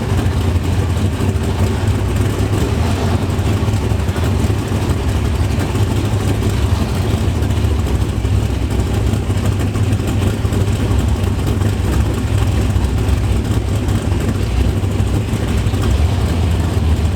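Muscle car V8 engine idling steadily, its sound low-pitched and even, with no revving.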